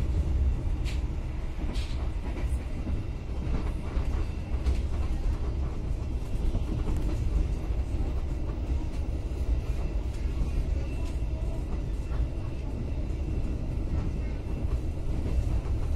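Argo Sindoro passenger train running at speed, heard from on board: a steady low rumble with a few sharp clicks near the start.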